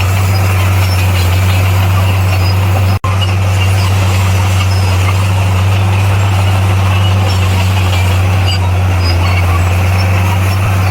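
Bulldozer's diesel engine running steadily at a constant low pitch, with a momentary break in the sound about three seconds in.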